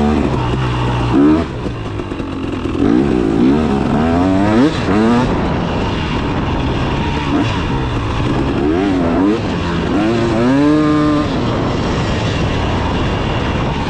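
A 300 cc two-stroke dirt bike engine being ridden off-road, revving up and falling back over and over as the throttle is worked, with one longer held rev near the end.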